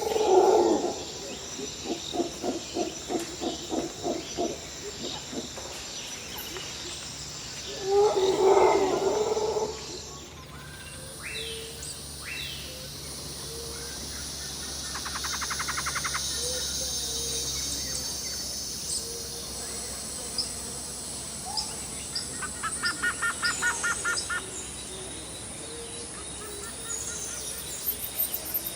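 Birds calling over a steady high insect drone. A loud, low call repeated in quick pulses comes twice in the first ten seconds, then scattered chirps and two short, fast trills.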